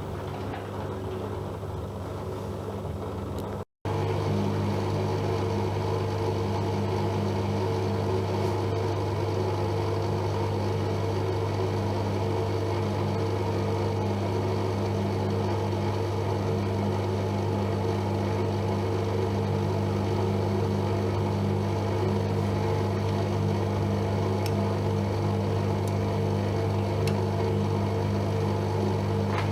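AEG Öko-Lavamat Lavalogic 1600 washing machine running with a steady low hum during a 60°C wash. The sound breaks off for an instant about four seconds in, then carries on a little louder.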